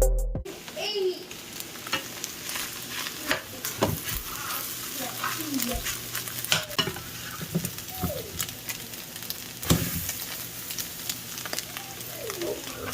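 Pancake batter sizzling in a hot frying pan, a steady hiss with scattered clicks and scrapes of a cooking utensil.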